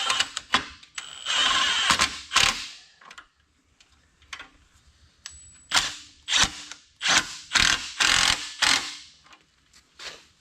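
Hand ratchet wrench being worked on bolts: repeated rasping ratchet strokes in short bursts, a cluster near the start and another in the second half, with a quieter pause between.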